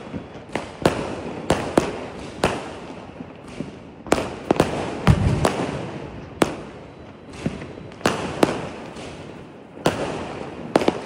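Aerial fireworks going off: irregular sharp bangs, more than one a second, over a steady crackle, with a deeper boom about five seconds in.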